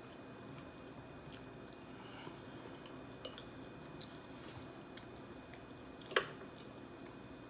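A person chewing a mouthful of macaroni and cheese close to the microphone, with soft wet mouth sounds. A few faint clicks are heard, and there is a sharper click about six seconds in.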